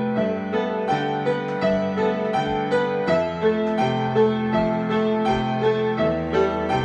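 Piano improvisation: held low notes under a melody and chords that move in even notes, about two or three a second.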